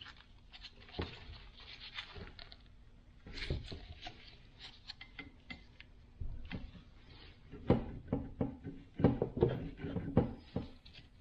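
Irregular clicks, knocks and clinks of metal parts and tools being handled while working on a steering gearbox, sparse at first, then a run of louder knocks about eight to ten seconds in.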